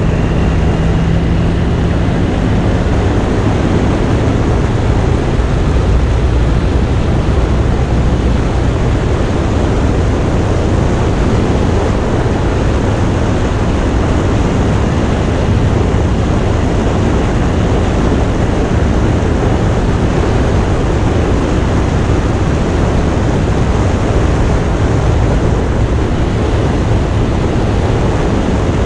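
Indian motorcycle's V-twin engine running steadily at speed, under loud, even wind rush.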